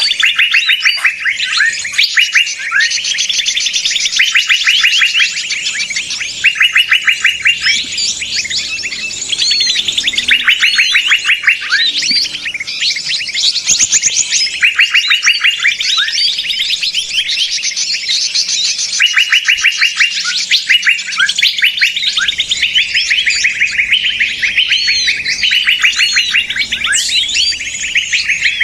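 Bird-lure recording of a raucous chorus of small birds: overlapping bursts of rapid, high chirps, each about a second long, repeating without pause.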